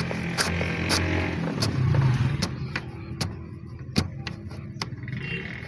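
Car engine running with a steady low hum that swells briefly about two seconds in, with several sharp metallic clicks over it.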